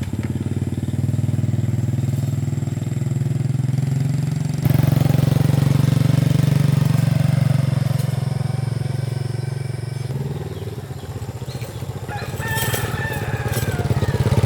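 A small engine running steadily with a fast, even chugging pulse. It jumps louder about four and a half seconds in and eases off briefly near the end.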